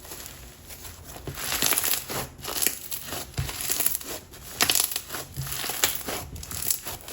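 Black Snow Fizz perlite slime crunching and crackling as it is pressed and worked by hand, in repeated bursts of fine crackles.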